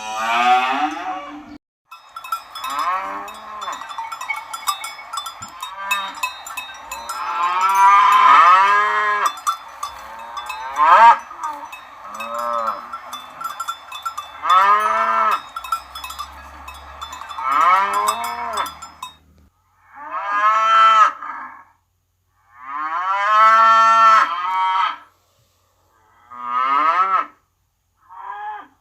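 Cattle mooing, one call after another, each moo bending up and down in pitch. For the first two-thirds the moos overlap over a constant high clinking; after that, single moos come every two to three seconds with silent gaps between them.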